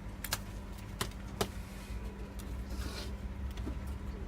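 Small sharp clicks of laptop and hard-drive parts being handled, three in the first second and a half, with a short scrape about three seconds in, over a steady low hum.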